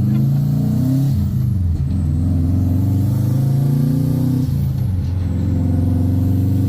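Subaru 2-litre WRX turbocharged flat-four engine running under load as the car drives. Its note dips and climbs back up about a second in and again around the five-second mark, then runs steady.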